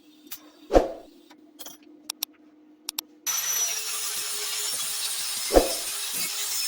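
A few light knocks and a thump over a faint hum, then a power tool starts suddenly about three seconds in with a loud, steady rasping noise.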